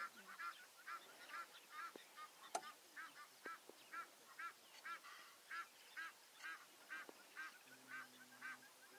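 A bird calling in a long, steady series of short arched calls, about two a second. A single sharp click sounds about two and a half seconds in.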